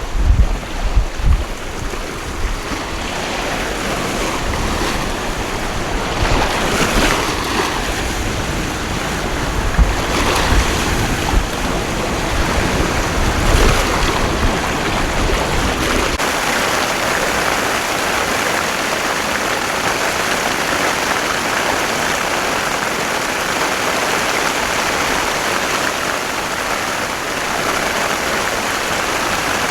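Heavy rain pouring steadily, with wind gusting against the microphone in a low, buffeting rumble. About halfway through the wind rumble drops away, leaving only the even hiss of the downpour.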